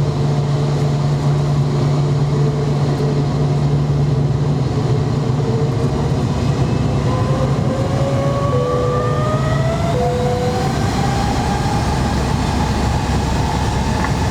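Engine noise of a McDonnell Douglas MD-90 airliner with its IAE V2500 turbofans running: a steady low hum, then from about halfway through a whine that climbs slowly in pitch as the engines spool up.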